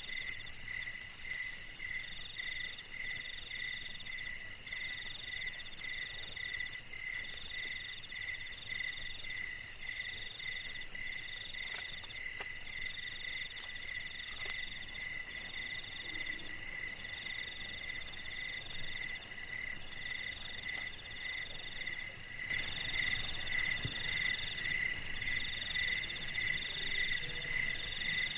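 Night chorus of crickets and other insects chirping in several overlapping, evenly pulsing trills at different pitches. The highest, fastest trill stops about halfway through and starts again near the end, and a low rushing noise comes in during the last part.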